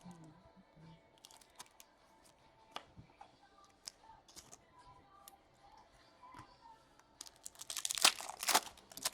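A foil pack of trading cards being torn open with a loud crinkling rip, about seven seconds in. Before that come scattered light clicks and rustles of card handling.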